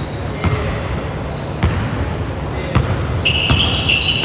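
A basketball bouncing on a hardwood gym floor, single thuds about a second apart, over background voices in a large, echoing gym. High, short sneaker squeaks start near the end.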